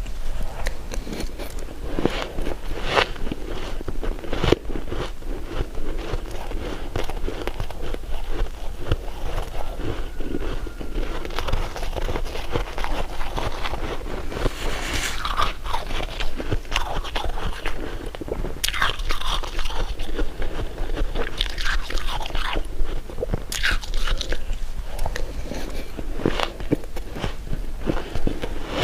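A person biting and chewing crunchy food close to the microphone, with irregular crisp crunches and crackles throughout.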